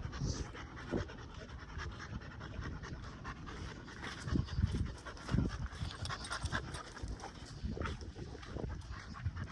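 An American pit bull terrier panting steadily in quick, rasping breaths, with a few low thuds partway through.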